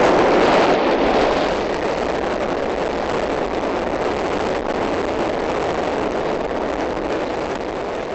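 Gale-force blizzard wind buffeting the microphone, a loud, steady rushing with no let-up, starting to fade near the end.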